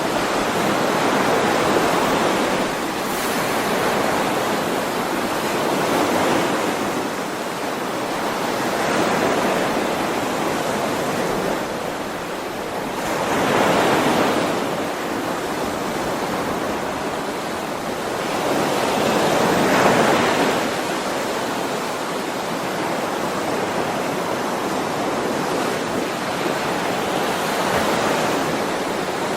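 Ocean waves washing in, a continuous surf that swells and recedes every few seconds, with the biggest surges near the middle and about two-thirds through.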